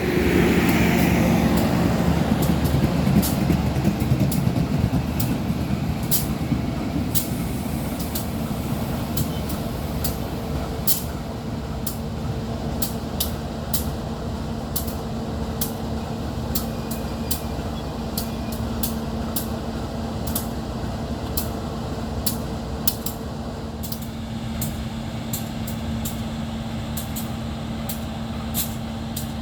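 Diesel locomotive engine running with a steady drone, loudest in the first few seconds and then settling to an even level. Frequent sharp clicks sound over it.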